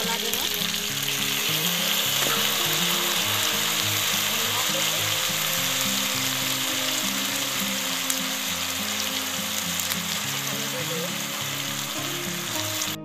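Hot oil sizzling steadily as elephant apple pieces fry in an iron kadai, with background music underneath. Stops abruptly at the very end.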